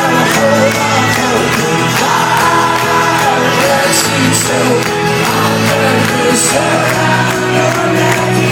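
Live instrumental passage by a rock band joined by a high-school marching band, full held chords at a steady loud level, with crowd noise beneath.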